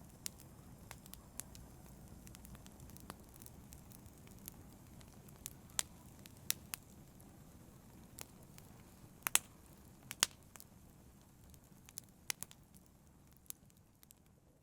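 Wood fire burning with a low steady rumble and scattered crackles and pops, a few louder snaps in the middle, growing fainter near the end.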